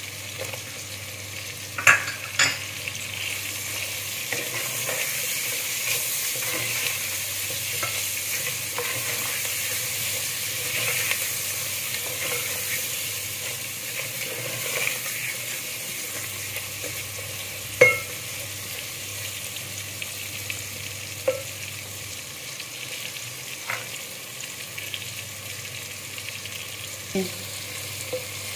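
Onions, tomatoes and green chillies sizzling steadily as they fry in ghee in a metal pot, stirred with a ladle. A few sharp knocks of the ladle against the pot, the loudest about two seconds in and again about two-thirds of the way through.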